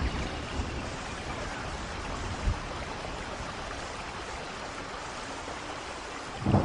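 Steady rainfall, an even hiss of drops falling, with one brief low thump about two and a half seconds in.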